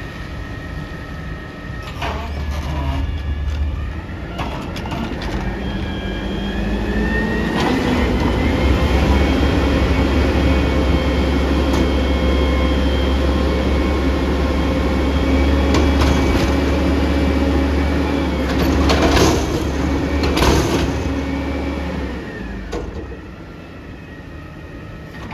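Front-loader garbage truck's engine revving up and holding high revs with a steady whine, as when it drives the lift-arm hydraulics. Two sharp metal bangs come about three-quarters of the way through, then the revs drop back near the end.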